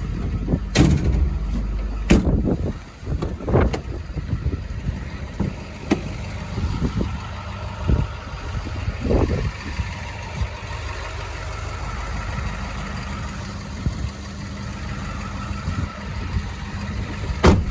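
6.7L Powerstroke V8 turbo-diesel of a Ford F-550 idling steadily, with several sharp clunks and knocks over it; the loudest come about two seconds in and near the end.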